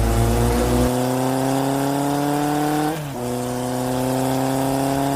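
Tata Tigor's engine and exhaust accelerating, pitch climbing steadily, dropping briefly about three seconds in at a gear change, then climbing again.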